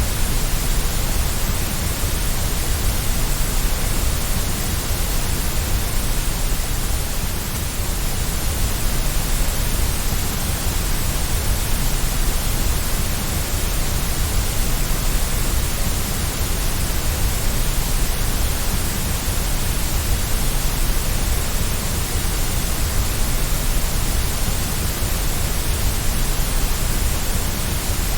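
Steady white noise for soothing a baby to sleep: an even, unbroken hiss with no rhythm or changes.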